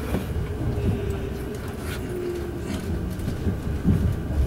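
Kintetsu Urban Liner Plus limited express running, heard from inside the passenger car: a steady low rumble of wheels and motors on the rails, with a few faint clicks.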